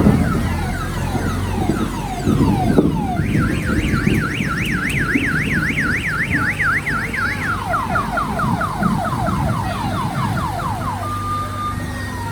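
Electronic vehicle alarm sounding and cycling through its tones: first falling chirps, then a fast up-and-down warble, then a quick run of falling sweeps, and short steady beeps near the end. A low rumble runs underneath.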